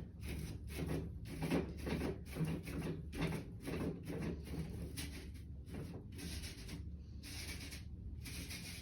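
Foam sponge brush dabbing and scrubbing paint onto paper in repeated short scratchy strokes, a few a second.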